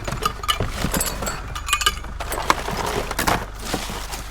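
Scrap being handled by hand: a run of irregular clinks and knocks, some of them metal, with the steady low hum of an idling vehicle engine underneath.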